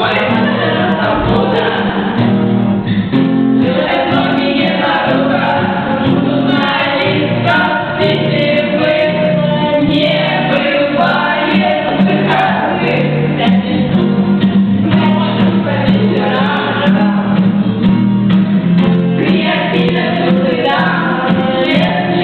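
Several voices singing a song together in Russian, over steady held low notes of an accompaniment.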